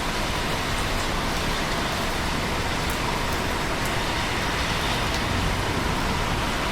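Steady, even rain noise, with faint scattered drop ticks.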